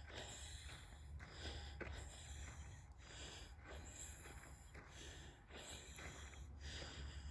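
Faint, steady breathing of a person, breath following breath about once a second, over a low rumble.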